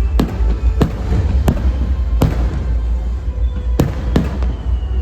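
Fireworks going off in a show: about seven sharp bangs at uneven intervals. Music plays underneath with a strong, steady bass.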